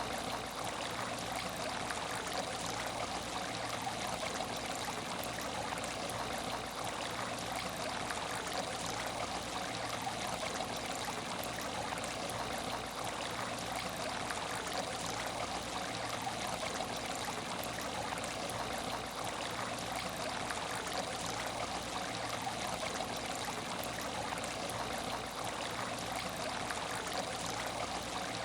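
Water in an aquarium tank trickling and splashing steadily, with no change or break.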